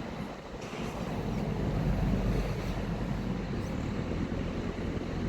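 Diesel engine of heavy demolition machinery running steadily with a low rumble, growing louder about two seconds in, with wind noise on the microphone.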